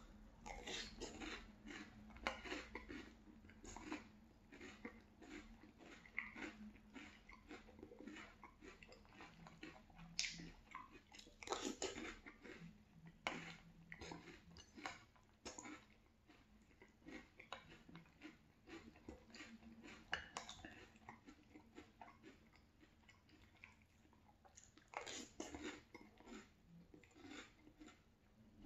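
Close-miked chewing of crunchy French Toast Crunch cereal with milk: irregular crisp crunches, fainter for several seconds in the middle and louder again near the end.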